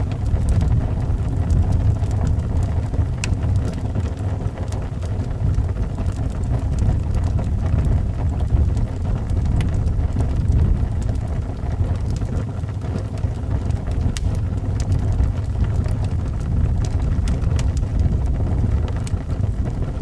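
Wind howling around a house in a steady low rumble, over the scattered sharp crackles and pops of a wood fire burning in a fireplace.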